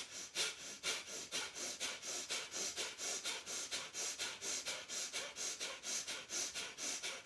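Kapal Bhati breathing: rapid, forceful exhalations snapped out through the nose by pumping the belly, about three a second in an even rhythm.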